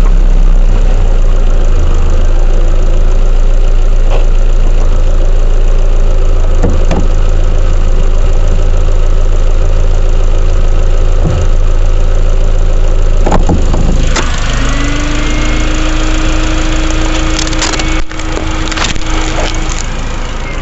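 A machine running with a loud, steady low drone and scattered clicks and creaks. About fourteen seconds in, the drone eases and a steady hum sets in for a few seconds.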